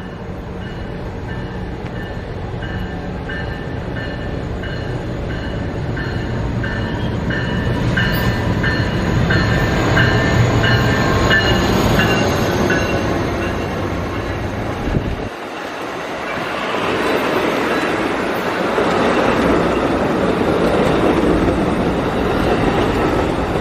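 A passenger train passing close by. For the first half a bell rings about once a second over a low engine rumble. The rumble cuts off about fifteen seconds in, giving way to the steady rush and clatter of the cars going by.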